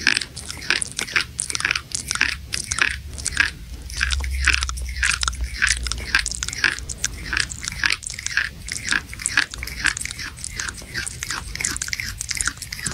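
Close-up crunchy chewing and biting, a rapid, unbroken run of wet crunches about four a second, like a mukbang-style eating sound effect.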